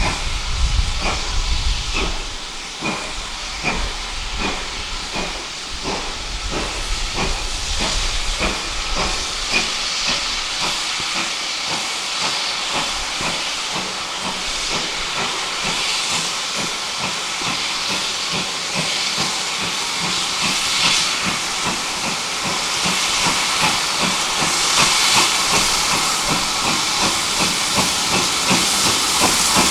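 GWR Manor class 4-6-0 steam locomotive No.7802 Bradley Manor working hard, its exhaust beats quickening as it gathers speed, over a steady hiss of steam.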